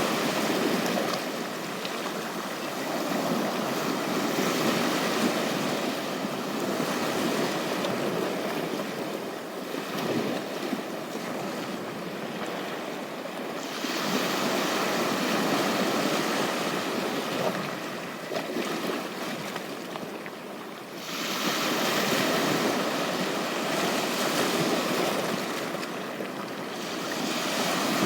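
Sea waves washing onto a beach, the surf swelling and easing every several seconds.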